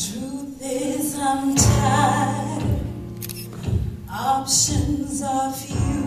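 Slow gospel ballad: a singer's drawn-out melodic vocal lines without clear words, over sustained keyboard-style accompaniment and a light, slow beat.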